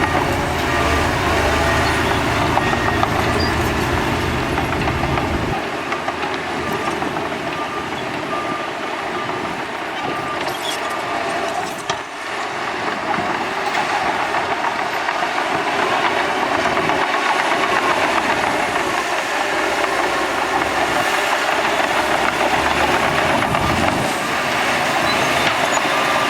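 Heavy earthmoving machinery working: a diesel engine runs with a continuous mechanical clatter and rumble. The deep low rumble drops away about five seconds in, while the rest of the machine noise carries on.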